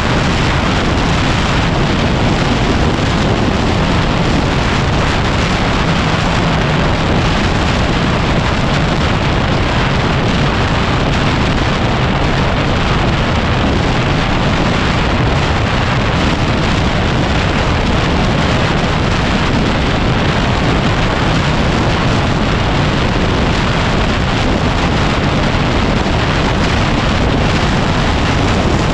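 Loud, steady wind noise rushing over the microphone of a 2010 Yamaha WR250R dual-sport motorcycle as it rides along.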